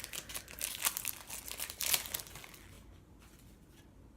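Plastic trading-card pack wrapper crinkling and tearing as it is opened, densely for about two seconds, then only faint rustling.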